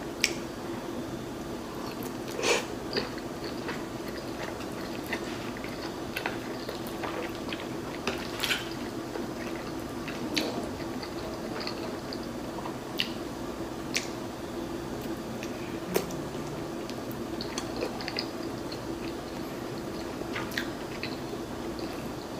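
A person chewing soft, slippery shrimp rice noodle roll: wet, squishy mouth sounds with scattered small clicks and smacks, over a steady low hum.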